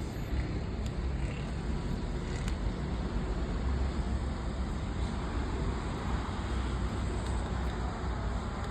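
Jet airliner engines giving a steady, deep, rushing rumble as a large plane departs, growing a little fuller around the middle.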